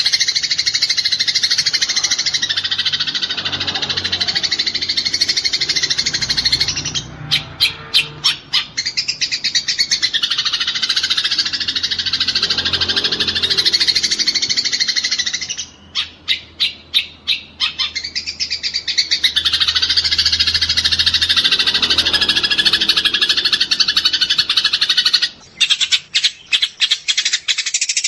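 Eurasian tree sparrows chattering in fast, dense runs of notes, the agitated calls of sparrows fighting. Three times the chatter breaks into a second or two of separate sharp chirps.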